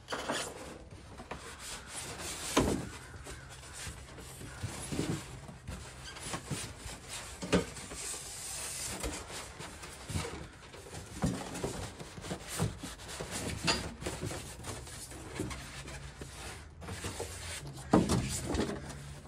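Cardboard packaging and boxed saw parts being handled and pulled out: irregular rustling and scraping with scattered light knocks.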